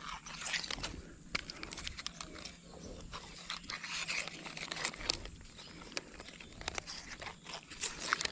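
Faint scattered clicks and rustling of hands handling a small fishing rod and its line.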